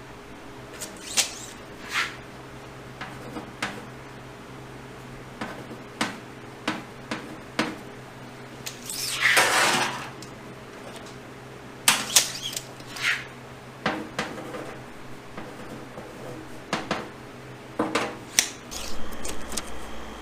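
Workshop handling noises over a steady low hum: scattered clicks and knocks of tools and wooden parts being handled, with one scraping rasp lasting about a second, roughly nine seconds in.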